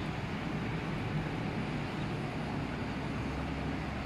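Steady outdoor rain-and-wind noise: a constant low rumble with an even hiss above it, and no distinct events.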